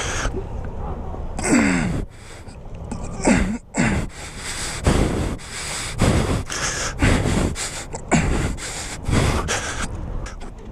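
A man breathing hard from physical effort: heavy gasps and panting breaths about once a second, some with short voiced grunts, as he pushes a stalled car by hand.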